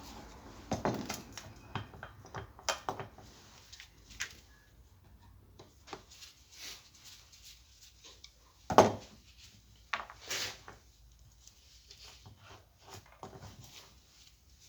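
Irregular knocks and clinks of tools and parts being handled, with one louder knock about nine seconds in.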